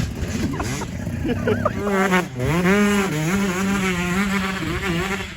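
Dirt bike engine being ridden, its pitch dipping and climbing again as the throttle is rolled off and opened.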